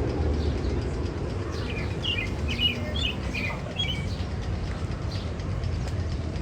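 A bird chirping: a quick series of short, high chirps lasting about two seconds, over a steady low rumble.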